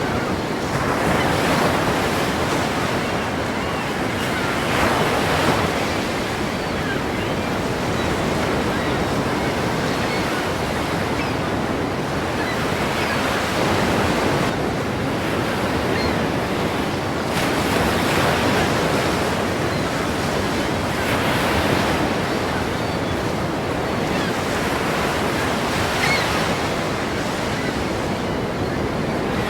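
Ocean surf: waves breaking and washing in continuous noise, swelling in a new surge every few seconds.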